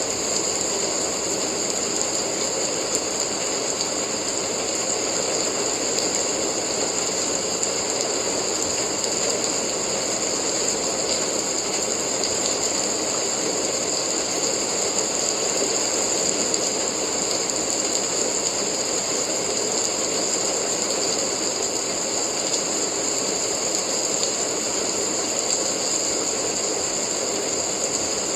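Steady rain sound used as sleep noise: a continuous, even hiss at a constant level, with no single drops or events standing out.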